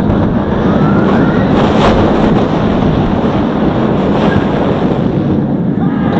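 Steel floorless roller coaster train running along its track at speed: a loud, steady rumbling roar mixed with wind buffeting the microphone, with a few brief high wavering tones.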